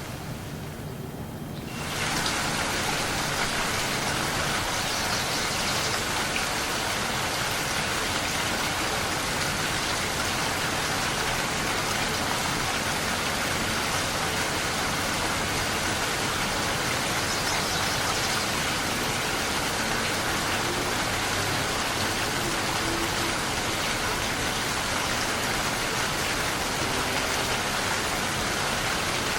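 Steady rain, an even hiss of falling drops. About two seconds in it turns suddenly louder and brighter, then holds steady.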